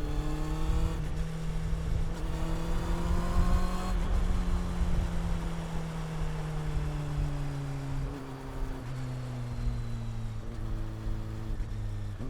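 Honda CB400 Super Four inline-four engine and exhaust under way. The revs climb, dip at a gear change about a second in, and climb again. After about four seconds they fall steadily as the bike slows, then settle lower.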